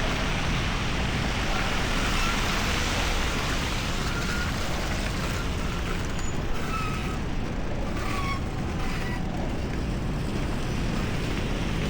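Steady noise of road traffic and wind while cycling on a snowy city street, with a few faint, short high squeaks in the middle.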